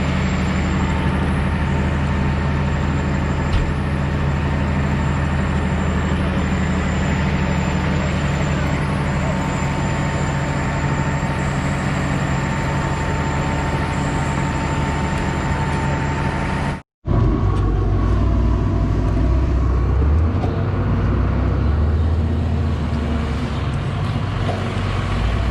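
Engine of a farm machine running steadily at a constant speed. It cuts off abruptly about 17 seconds in and comes back with a deeper, heavier engine sound.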